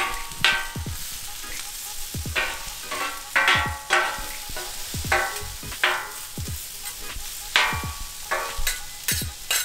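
Metal griddle spatulas clanking and scraping on the steel top of a Pit Boss four-burner griddle as sliced onions and peppers are stirred, over a steady sizzle of the vegetables frying in oil. The clanks come irregularly, about every half second, each ringing briefly.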